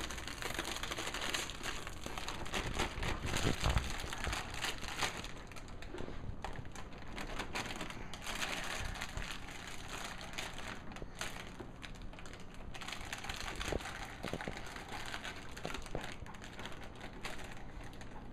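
Shopping bags and craft-supply packaging being handled, rustling and crinkling continuously with small clicks and crackles.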